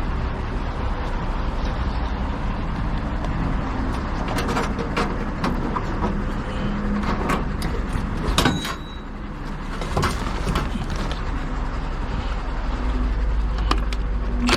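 A heavy truck's engine runs steadily, with scattered clanks and knocks over it.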